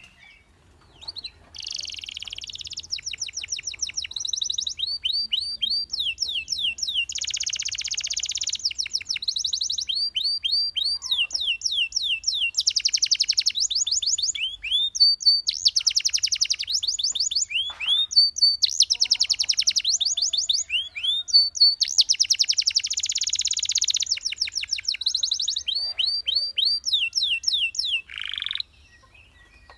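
Domestic canary singing a long, continuous song of rapid trills and fast repeated sweeping notes, in phrases with brief breaks between them. It falls silent shortly before the end.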